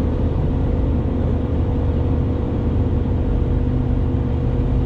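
Steady road and engine noise heard inside a moving vehicle's cabin: a constant low rumble with a steady hum.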